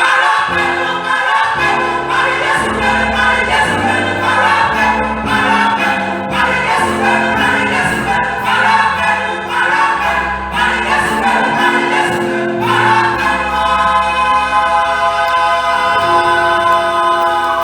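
A church choir singing a Christmas carol over sustained low instrumental notes, the chord held near the end.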